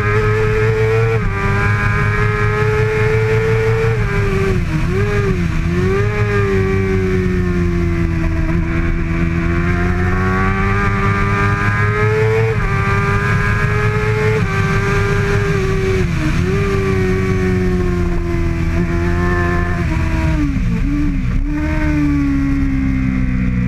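2013 Kawasaki ZX-6R's 636 cc inline-four racing engine running hard at high revs, the pitch rising and falling through the gears. Its pitch dips sharply and recovers around five seconds in, again about sixteen seconds in, and twice near the end.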